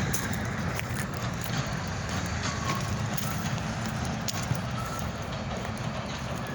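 Freight train rolling past: a steady rumble of wheels on the rails, with a few brief faint squeals.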